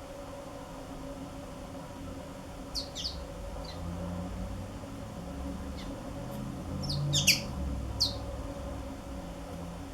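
Black-throated canaries giving short, high chirp calls that drop quickly in pitch, scattered a few at a time and loudest in a quick cluster about seven seconds in, over a steady low hum.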